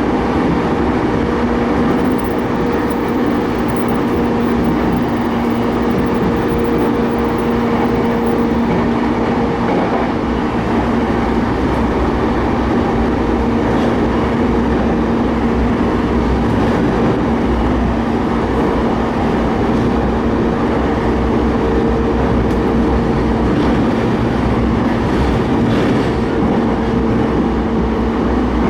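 Keiyō Line rapid train running at steady speed, heard from inside the passenger car: a continuous rumble of wheels on rail with a steady two-note hum under it and a few faint clicks.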